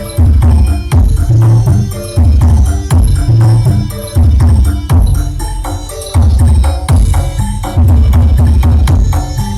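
Bass-heavy music with percussion played very loud through a large sound system running a sound check, with deep bass hits pulsing about once a second.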